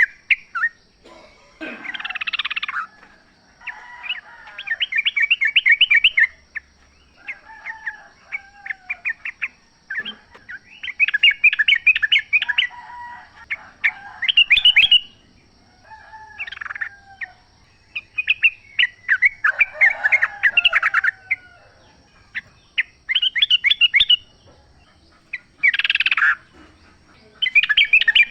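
Sooty-headed bulbuls (trucukan) calling in the wild: bubbly bursts of quick chattering notes, one burst every couple of seconds with short pauses between.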